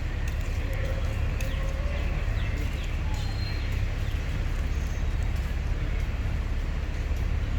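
Bus in motion heard from inside the passenger cabin: a steady low engine and road rumble, with scattered clicks and rattles from the body and fittings.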